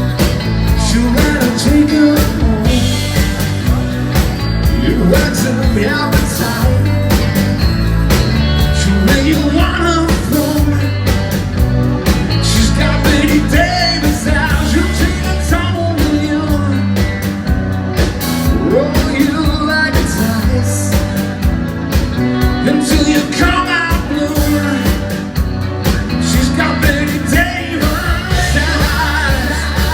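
Rock band playing live with a lead singer, over steady drums, bass and guitar.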